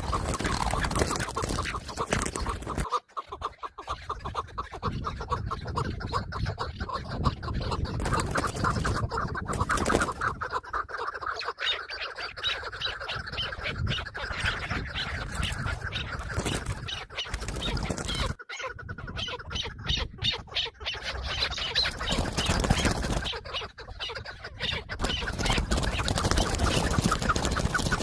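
Chukar partridges calling: fast runs of repeated clucking notes that go on throughout and break off abruptly a couple of times.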